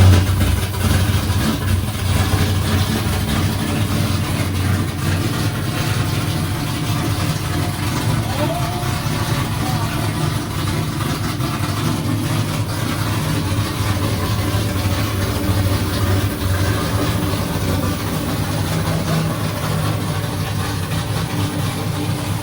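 Freshly built drift-car engine firing up on its first start and running steadily, held at a fast idle of about 1,000 rpm. It is quite loud, with a deep, even hum.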